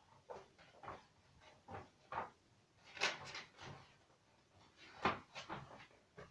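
Irregular knocks and clatter of things being handled during the unboxing of a microwave oven, about a dozen short hits, the loudest about three seconds and five seconds in.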